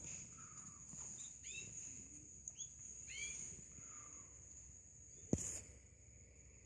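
Small aviary birds giving short, scattered chirps, some rising and falling in a quick arch and some lower falling notes, over a steady high-pitched whine. A single sharp knock about five seconds in.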